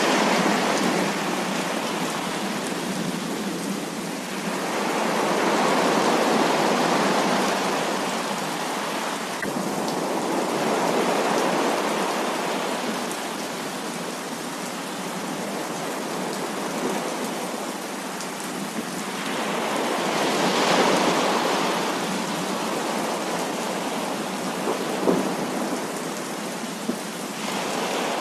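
Heavy rain pouring steadily, with rumbles of thunder swelling and fading several times.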